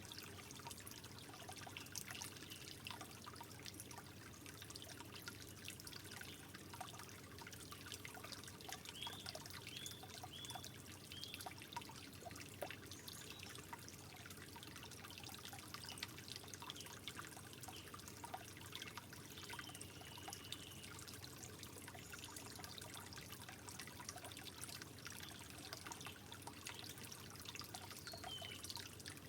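Gentle water trickling steadily, with many small splashing drips. A few faint, short, high chirps come about a third of the way in.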